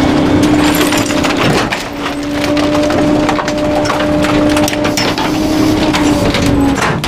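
Garbage truck's hydraulic packer crushing bulky waste: items crack and snap in close succession over a steady hum, which drops out briefly about a second and a half in.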